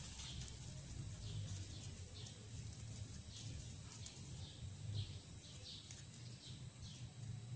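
Young kittens mewing: a string of short, thin, high-pitched cries, about one or two a second, over a steady low hum.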